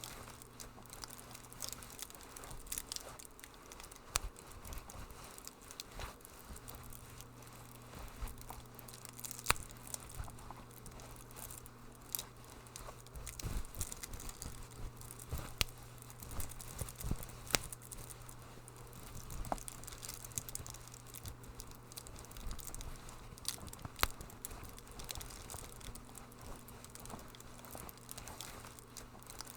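Wood fire crackling in a fireplace, with irregular sharp pops and snaps, a few louder than the rest, over a faint steady low hum.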